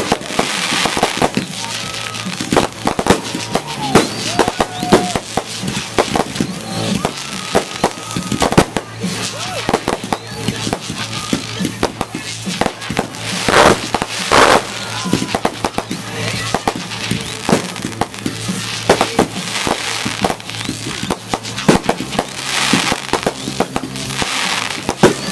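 Aerial fireworks bursting in quick succession, a dense run of sharp bangs and crackles with the loudest cluster about halfway through, over background music and voices.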